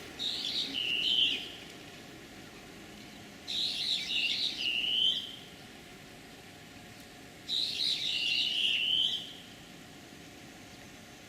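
Common kingfisher calling: three bouts of high, thin whistled notes, each about a second and a half long and dipping slightly in pitch, repeated about every four seconds.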